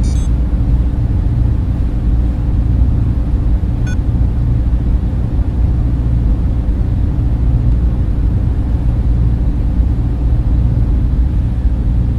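Server room ambience: the steady whir of many cooling fans running together, an even, unchanging rumble heavy in the bass.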